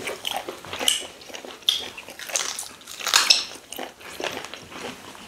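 Close-miked eating sounds: wet chewing and lip smacking of soft food and meat, made up of irregular short smacks and clicks several times a second.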